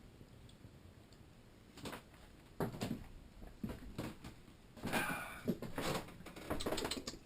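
Handling noise from a camera being picked up and fiddled with: irregular knocks, bumps and rustles begin about two seconds in, after a faint hush.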